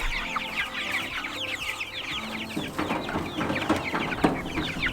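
A flock of young meat-bird chicks peeping continuously, many short falling chirps overlapping, with a rustling noise joining in about halfway through.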